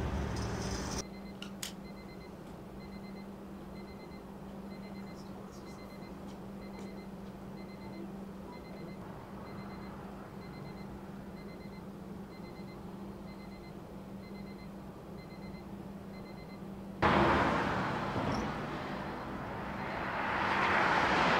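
A steady low hum with a faint high beep repeating about once a second. About three-quarters of the way in, a loud rush of highway traffic cuts in, and a vehicle swells past near the end.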